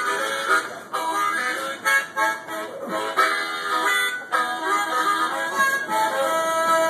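Blues harmonica playing a melody of short and held notes, some of them bent in pitch.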